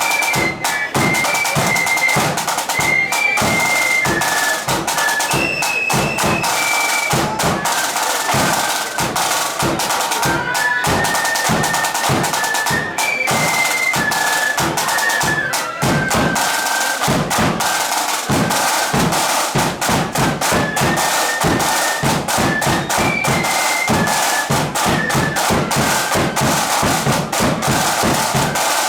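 Flute band playing a march: a massed melody of high flutes over snare and bass drums keeping a steady, busy beat.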